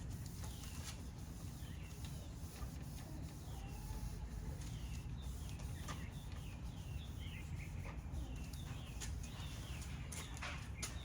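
Small birds chirping again and again in short, falling notes, over a steady low background rumble. A few sharp clicks come near the end.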